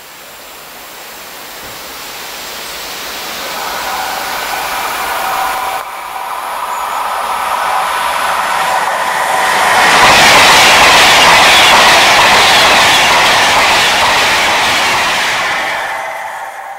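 Express passenger train passing through a station at speed without stopping. Its sound builds from a distant hum with a faint steady whine into a loud rushing clatter as it goes by, then falls away quickly near the end.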